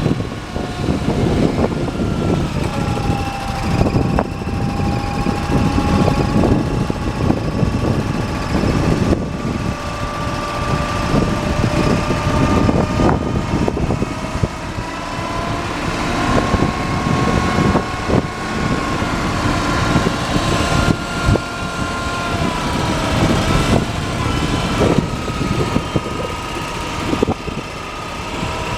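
Heavy truck engine running steadily with a whine from the drill rig's hydraulics that slowly drifts up and down in pitch, as the rig is raised and lowered. A few short clanks come and go.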